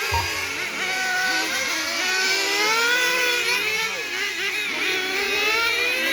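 Several engine-powered RC cars racing together, their small nitro engines whining at high revs, with pitches overlapping and rising and falling as they accelerate and brake around the track.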